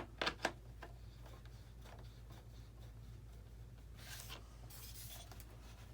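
Light handling clicks, then two short scraping rubs, as screws are driven by hand to fasten the foam body of an RC model plane, over a low steady hum.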